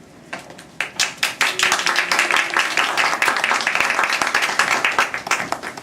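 Audience clapping by hand, starting with a few scattered claps and building into steady applause.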